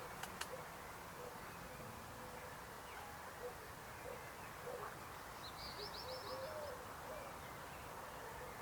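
Frogs croaking: short, scattered calls, with a brief rapid high-pitched ticking trill about midway.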